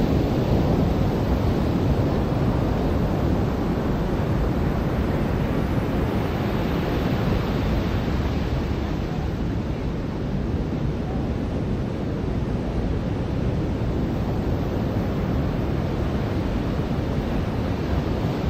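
Ocean surf washing onto a beach: a steady rushing wash that eases slightly midway and builds again.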